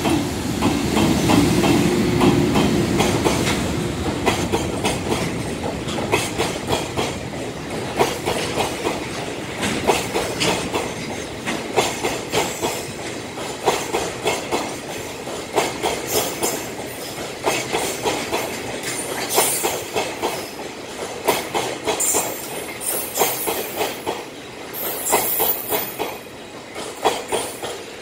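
Freight train of tank wagons running past at speed: a steady clickety-clack as wheelsets cross the rail joints, with brief high wheel squeals near the end. A deep rumble in the first few seconds fades as the EH500 electric locomotive draws away, and the sound drops off as the last wagons go by.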